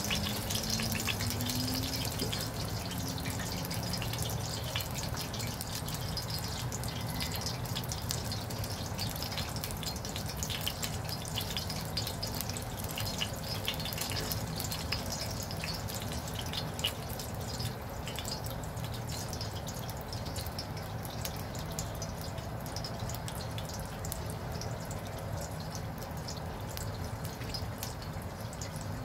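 Eggplant slices deep-frying in hot oil, a steady sizzle full of fine crackles that thin out in the second half. A low steady hum runs underneath.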